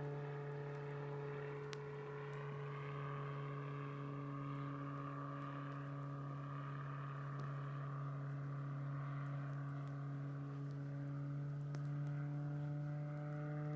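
Propeller airplane flying over: a steady engine drone whose pitch shifts slightly near the end.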